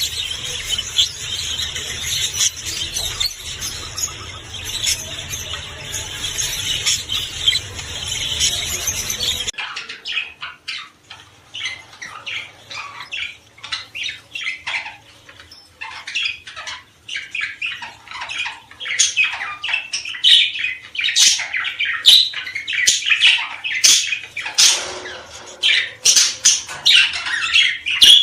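Small songbirds singing: a dense, unbroken chorus of chattering song, which cuts suddenly about ten seconds in to rapid separate chirps and trills that grow busier toward the end.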